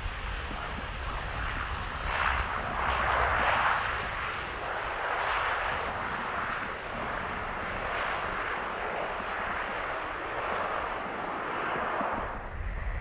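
Jet airliner passing, its engine roar swelling about two seconds in, rising and falling in waves, and fading near the end.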